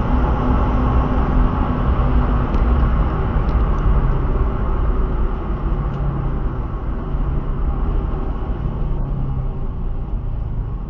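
Car engine running steadily under load, its note dropping lower about halfway through.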